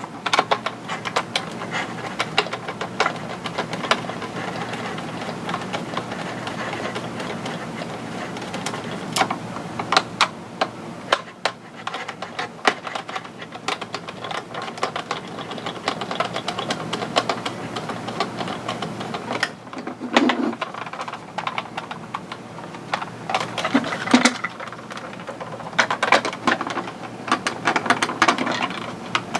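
Hand disassembly of a plastic electronic X-Wing toy: screws being turned out with a screwdriver amid many sharp clicks and taps of hard plastic parts being handled, busiest near the end.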